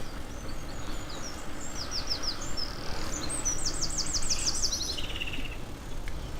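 A small songbird singing: a short run of quick high notes, then a longer series of rapid descending notes ending in a lower trilled flourish near the end.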